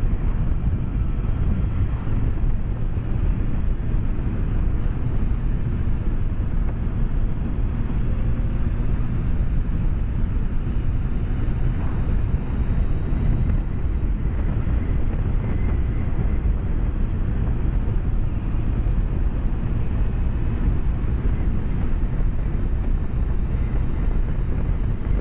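BMW K1200S motorcycle's inline-four engine running steadily while riding along, mixed with wind and road noise, heard from a microphone inside the rider's helmet as an even, low-heavy rumble.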